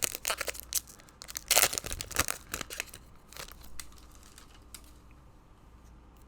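Foil wrapper of a trading-card pack crinkling and tearing as it is opened, a quick run of sharp crackles that is loudest about one and a half seconds in and dies away after about four seconds.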